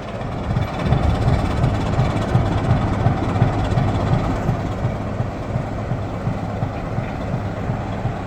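Heritage diesel locomotive engine idling steadily while the locomotive stands waiting to depart, a deep even throb.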